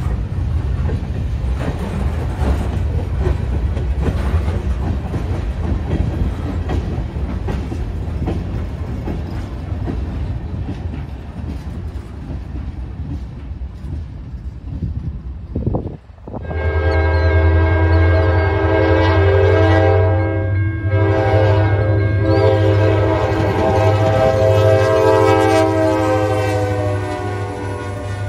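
Freight cars rolling past, steel wheels clattering on the rails with a steady rumble. After a cut about halfway through, a diesel locomotive's multi-tone air horn sounds a long chord, breaking briefly twice, over the low drone of the locomotives' engines.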